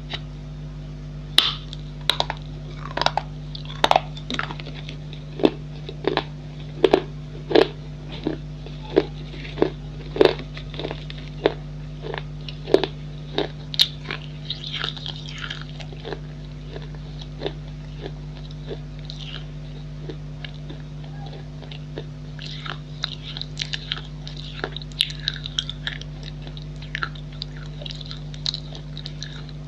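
Pieces of a baked clay pot bowl being bitten and chewed with sharp, crisp crunches, roughly one or two a second at first, then sparser and softer, over a steady low hum.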